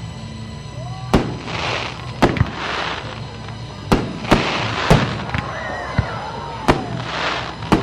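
Fireworks display: about nine sharp bangs of aerial shells bursting, roughly one a second, several followed by a hissing crackle.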